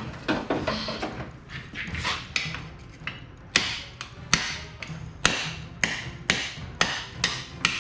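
Hammer blows: after a few softer knocks, a steady run of about eight sharp strikes begins about halfway through, roughly one every half second to second.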